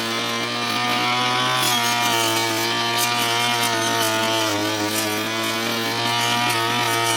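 Petrol brush cutter running at high speed while cutting thick grass, its pitch wavering and dipping briefly about halfway through as the cutting head takes the load.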